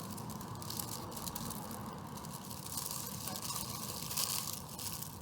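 Rapid crackling and crunching from eating tacos: paper taco wrappers crinkling and hard taco shells being bitten and chewed, over a low steady hum.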